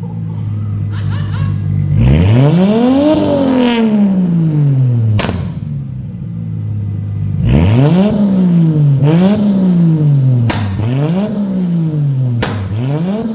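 Straight-piped, turbocharged RB30 straight-six idling and being revved: one long rev about two seconds in, then four quick blips in a row from about halfway. Three sharp, extremely loud bangs come from the exhaust as the revs fall. These are decel backfires from a crackle tune with −45° deceleration timing and the fuel cut turned off.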